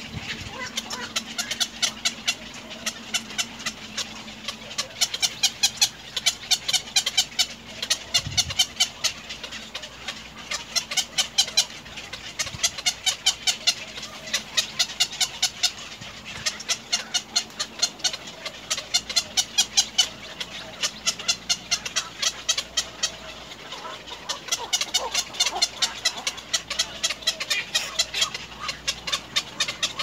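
Birds calling in rapid runs of short, sharp notes, several a second, with brief pauses between runs.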